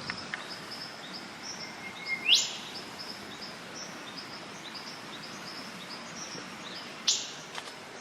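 Eastern whipbird calling: a held whistle that snaps into a loud rising whip-crack about two seconds in, and a second whip-crack about seven seconds in. Steady high chirping runs underneath.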